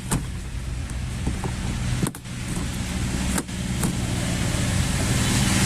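A steady low mechanical hum with a few light clicks, broken twice by brief dropouts.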